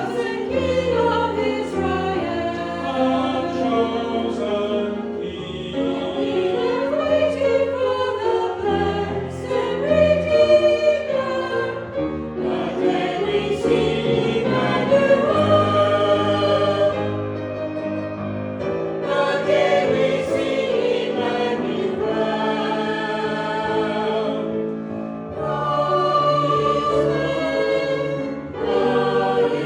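Choir singing a hymn with accompaniment, in sustained chords that change every second or so.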